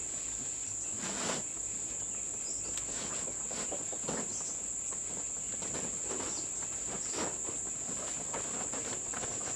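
Forest insects droning continuously at one steady high pitch, with a few irregular knocks and rustles over the drone.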